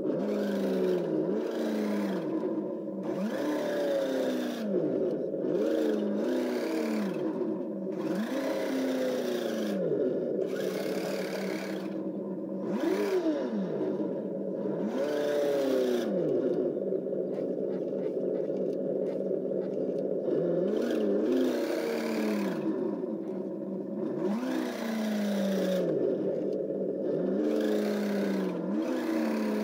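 Electronic engine-sound module on an RC snowcat, playing a simulated engine that revs up and drops back again and again, following the on-off steps of the mechanical speed controller. A rushing noise comes and goes with it.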